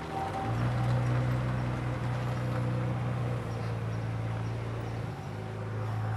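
Nissan Skyline GT-R's straight-six engine running at a steady note, getting louder about half a second in, with a brief dip near five seconds.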